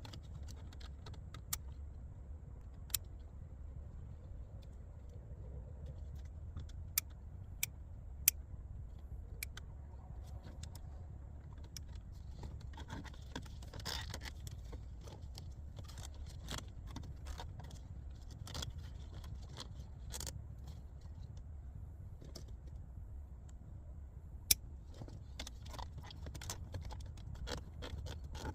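Irregular small clicks and taps of plastic as an LED strip's trim guide is pressed into the gaps between a car's interior trim panels, over a steady low hum.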